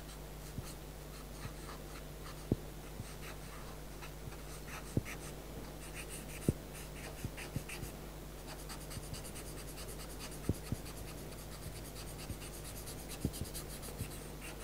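Pastel pencil scratching across paper in short, repeated shading strokes, with a few light taps in between and a steady low hum underneath.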